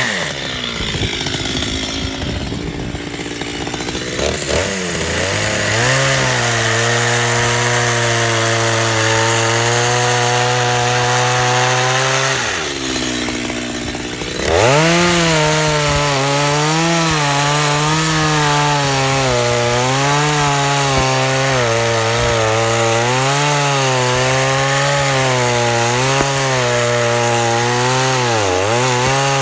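Two-stroke chainsaw running at high revs while cutting into a log, its pitch wavering under load. About halfway through it drops away toward idle, then revs back up.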